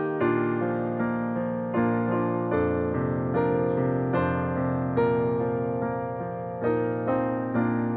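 Piano playing a slow piece of chords and melody, each note struck and then fading.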